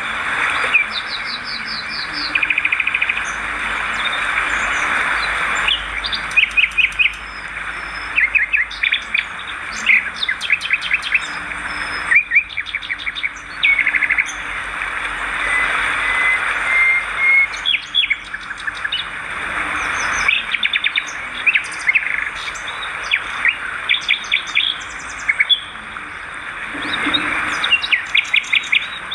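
Many swiftlets twittering, with frequent rapid trains of short clicking chirps over a dense, continuous chatter.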